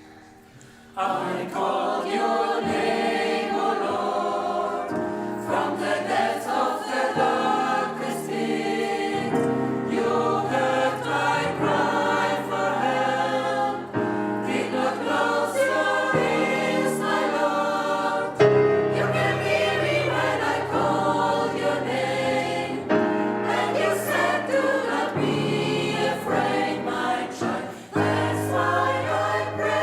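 Gospel choir singing in many voices, starting about a second in after a brief quiet.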